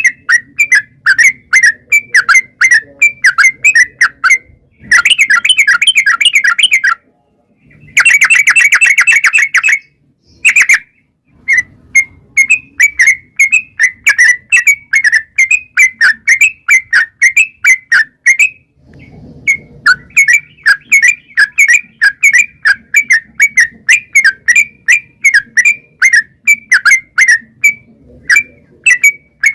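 Yellow-vented bulbul (trucukan) calling: a long string of short, sharp, whistled notes at about four to five a second. Two dense, rapid chattering runs (ropel) come about five and eight seconds in.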